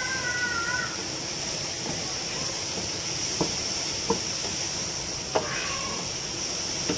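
Chopped spinach and onions sizzling in hot oil in a nonstick pot, stirred with a wooden spatula that knocks lightly against the pot a few times in the middle.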